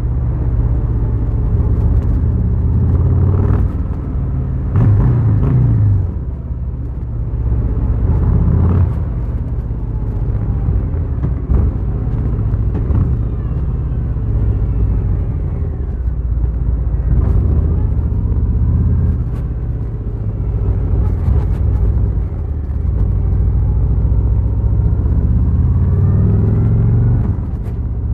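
Harley-Davidson Fat Boy's V-twin engine rumbling while riding, its pitch falling and rising with the throttle and climbing again near the end as the bike accelerates.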